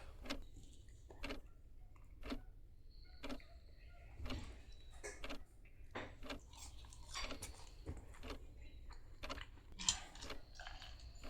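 Scattered soft clicks and knocks at irregular intervals, about one a second, from handling tableware and food while eating, with a low steady room hum underneath.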